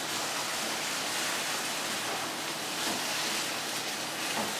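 Spinach, mustard greens and onion-tomato masala sizzling in a hot nonstick pan with a steady frying hiss while they are stirred with a spatula. There are a couple of faint scrapes of the spatula in the later part.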